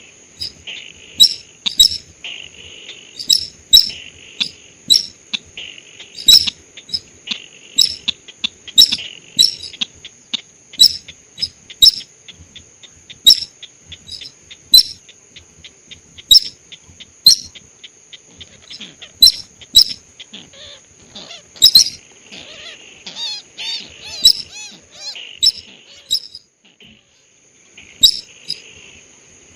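Recorded lure call of the sintar sawah, a rice-field bird: short, sharp chip notes repeated about once or twice a second, with a brief warbling phrase about two-thirds of the way through. A steady high insect-like whine runs beneath and breaks off briefly near the end.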